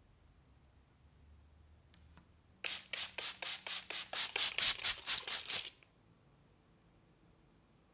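Abrasive scrubbing by hand on a part, about a dozen quick back-and-forth strokes at roughly four a second, lasting about three seconds and growing louder, typical of sanding or scrubbing off rust during restoration.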